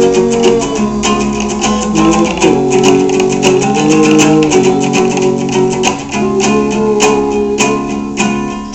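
Guitar strummed in a steady rhythm, moving through chord changes every second or so: an instrumental passage between sung verses of a song.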